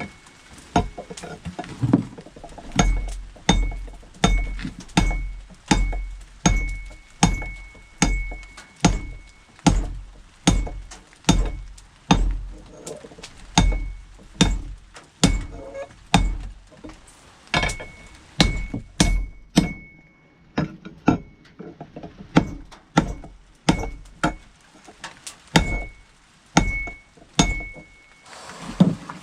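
Hand hammer striking hot steel on an anvil in a steady rhythm of about one to two blows a second, each blow with a short high ring from the anvil, while the blade edge of a tomahawk forged from a wrench is drawn out. The blows go lighter and lose the ring for a couple of seconds about two-thirds of the way through.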